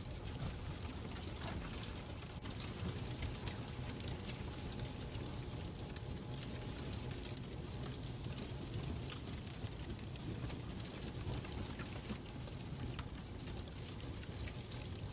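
Fireplace crackling: a steady low rumble of burning with many small scattered pops and crackles.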